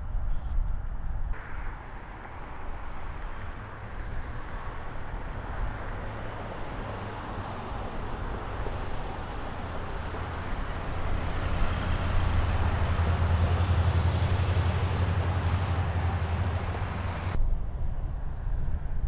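Motor vehicle traffic noise: a steady low engine rumble with road hiss, growing louder over several seconds and then cutting off abruptly near the end.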